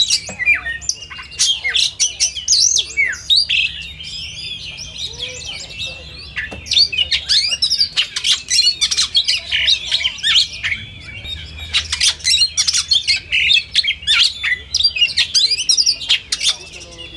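Oriental magpie-robins (kacer) singing in a dense, unbroken chorus of rapid whistles, chirps and harsh scratchy notes, several birds overlapping, as at a songbird contest.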